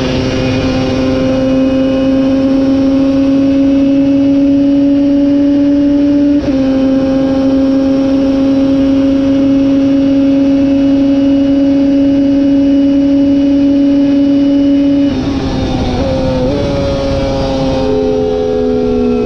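Racing superbike engine held at full throttle, its note climbing slowly, with a quick break for an upshift about six seconds in. Near the end the throttle closes and the engine note steps through downshifts.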